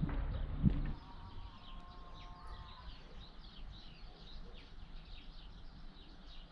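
Small birds chirping outdoors: a steady stream of short, high chirps, opened by a few low thumps in the first second.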